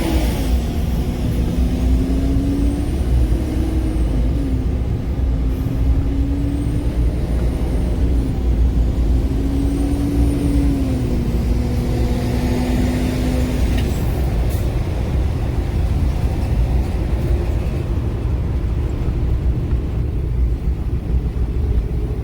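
A motor vehicle's engine running over a heavy low rumble, its pitch dipping and rising a few times before it fades out about fourteen seconds in.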